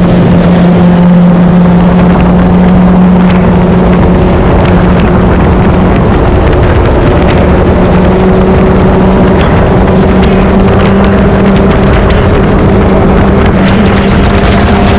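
Motorcycle engine running at a steady cruising speed under constant throttle, with wind and road noise; the engine note climbs a little near the end.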